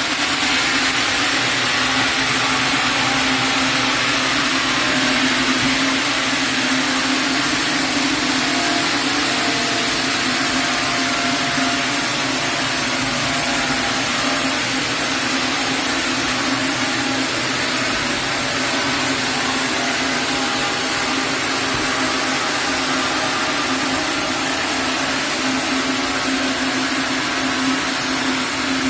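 Sawmill saw running steadily, with a constant hum under a hiss.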